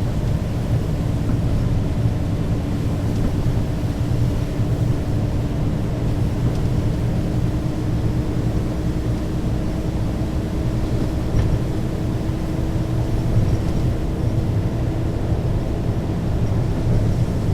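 Mercedes-Benz O 530 G Citaro G articulated bus running in service: a steady low engine and drivetrain rumble, with a thin whine that rises slightly in pitch and fades away near the end.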